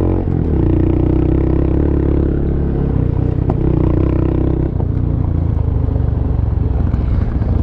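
Honda Monkey's single-cylinder engine running on a rough dirt road, its note dipping briefly about a quarter second in and settling lower about five seconds in. A few knocks and rattles come from the bike going over rocks.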